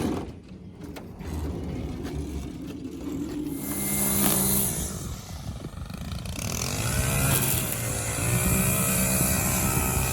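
A sharp thump right at the start, then an engine running, its pitch climbing and dipping a little past the middle as it revs.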